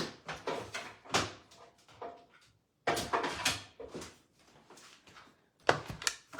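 Plastic embossing folder and machine plates being handled and set up for embossing, with irregular sliding and clacking noises broken by two short pauses.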